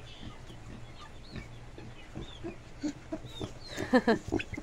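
Chickens clucking softly in short, scattered calls, with a louder run of clucks about four seconds in.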